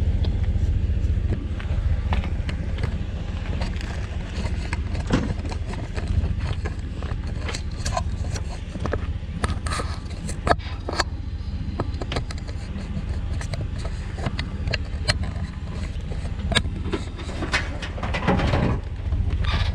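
A vehicle engine running steadily, a low rumble, with scattered clicks and knocks over it.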